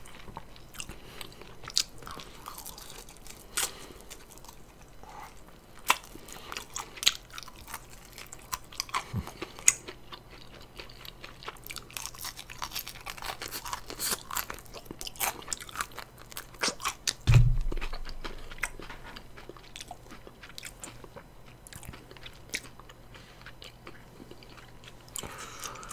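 Close-miked chewing of crispy fried chicken: irregular crunches and bites, with one louder low thump about two-thirds of the way through.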